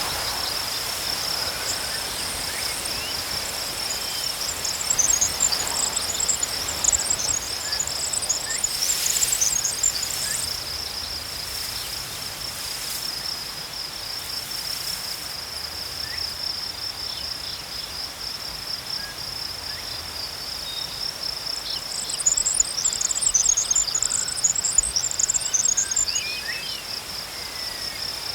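Crickets chirping in a steady, fast-pulsed chorus. Twice, a higher, busier chirping joins for several seconds.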